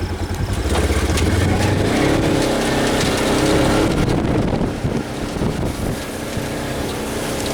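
Polaris RZR side-by-side's engine running as the vehicle drives off, its note rising over the first few seconds and then easing off, with wind on the microphone.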